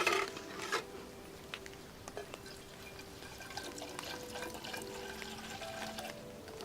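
Liquid being poured, with a sharp knock at the start and a smaller one just under a second in.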